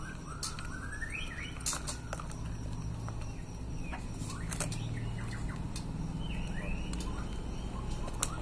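Birds calling faintly in short whistled glides, with several sharp clicks and taps, one loud click near the end.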